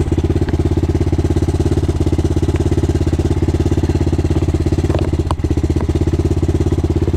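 Enduro motorcycle engine idling steadily with an even, rapid pulsing beat, and one brief click about five seconds in.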